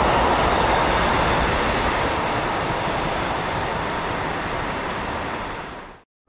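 Freight train running on the rails: a dense, steady rumble and rush that slowly fades, then cuts off suddenly near the end.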